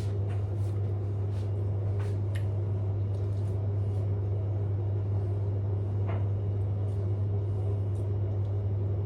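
Steady low hum with a few faint, scattered clicks over it.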